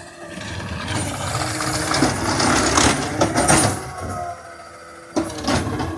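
Autocar McNeilus ZR garbage truck running, its noise building over the first three seconds. It eases off about four seconds in and picks up again near the end.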